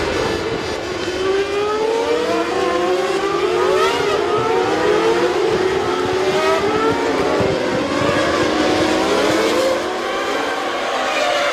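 Several 1997 Formula One cars running together, their high-revving engines overlapping, rising and falling in pitch through gear changes.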